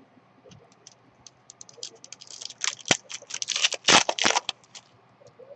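Trading cards being handled: a quick flurry of small clicks and crinkles, densest and loudest in the middle, then tailing off before the end.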